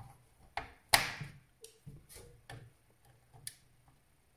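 Sharp clicks and taps as a new CMOS coin-cell battery is handled and pressed into its holder on the motherboard, with one louder snap about a second in.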